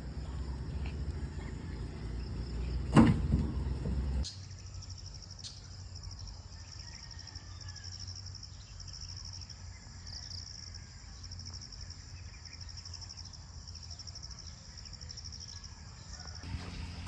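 Crickets or similar insects trilling steadily in a high, pulsing chorus. It is preceded for the first few seconds by a low rumble with a single sharp knock about three seconds in.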